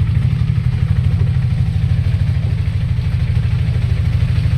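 Motorcycle engine running steadily, a low, rapidly pulsing rumble.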